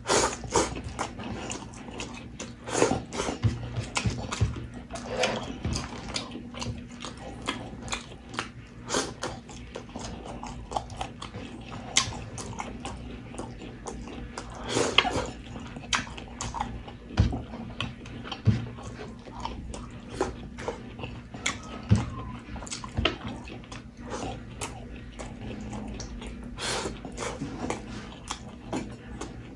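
Close-miked chewing and lip smacking of a mouthful of rice and pork, with many irregular wet clicks and smacks.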